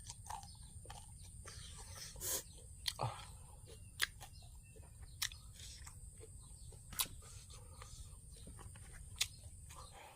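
A person chewing Isan green papaya salad close to the microphone: moist crunching with sharp clicks every second or two, over a steady low hum.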